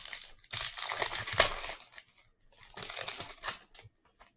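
Plastic or foil packaging crinkling as trading cards are handled, in two rustling spells of about two seconds and one second.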